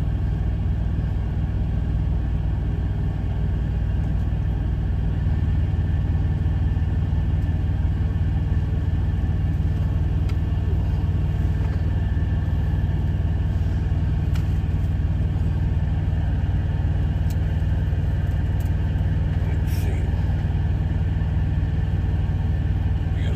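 Semi truck's diesel engine idling steadily, a low drone that shifts slightly about five seconds in, with a few faint clicks on top.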